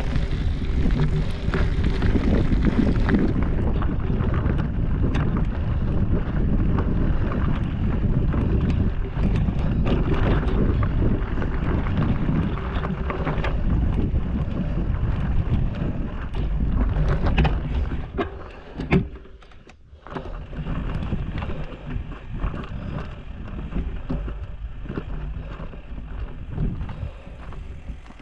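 Mountain bike riding over rough, rocky trail: a steady rattle of the bike and tyres on the ground, with wind on the microphone. It drops away briefly about two-thirds of the way through, then picks up again a little quieter.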